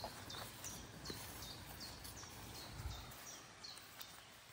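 A songbird singing a run of short high chirps, each sliding down in pitch, about two a second, stopping near the end. Faint footsteps through long grass sound underneath.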